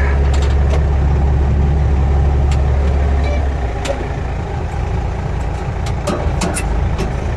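Tractor engine running while driving a Case IH 3650 round baler, its new chains and belts turning with scattered clicks and clanks. The deep engine drone eases about halfway through.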